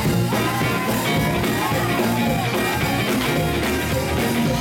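Live church band playing loud, upbeat gospel music on amplified instruments, running steadily under the preaching.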